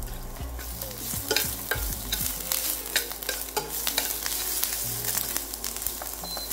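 Ground ginger frying in hot vegetable oil, a steady sizzle, while a spatula stirs it with frequent scrapes and taps against the pan.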